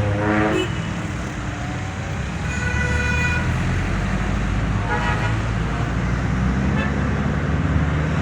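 City street traffic: a steady low rumble of passing engines, with car horns honking several times, the longest honk lasting about a second from about two and a half seconds in and a shorter one at about five seconds.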